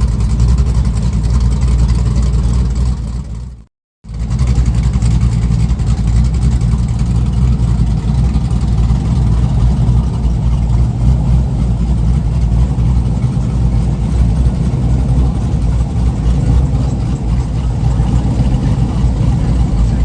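A vehicle engine running steadily at idle. The sound cuts out completely for a moment about four seconds in.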